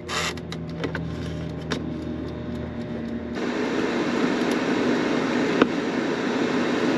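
A few clicks and knocks of handling over a low hum, then about halfway through an air fryer switches on and its fan runs with a steady rushing noise.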